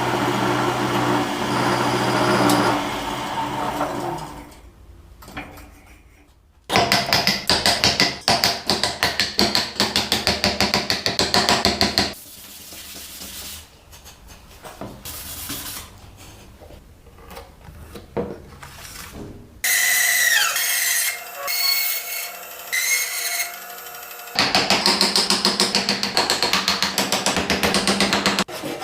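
Hand tools working wood: fast repeated rasping or sawing strokes, in several clips cut together. In the middle is a short stretch with a high whine that slides in pitch.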